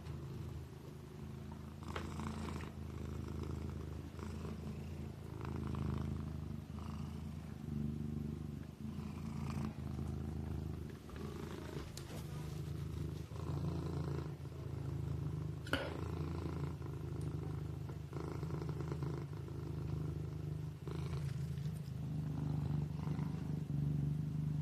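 Kitten purring steadily in a low rumble that swells and eases with each breath. A single sharp click sounds about two-thirds of the way through.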